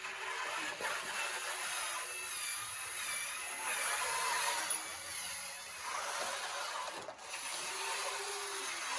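Radio-controlled model excavators and loader working: a steady mechanical whine that rises and falls, mixed with scraping and grinding noise.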